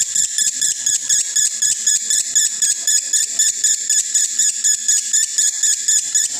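Male lovebird singing a long unbroken chattering song (konslet), a rapid run of high, shrill chirps at about five or six a second; the bird is in breeding condition.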